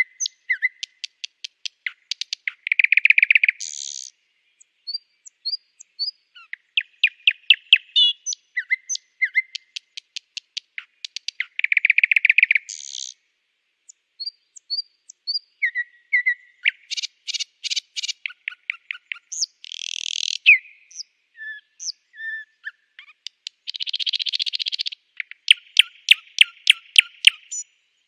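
Nightingale singing: varied phrases of rapid repeated notes, short whistles and loud buzzing trills, separated by brief pauses. The loudest parts are the buzzing trills, about three seconds in and again about twelve seconds in.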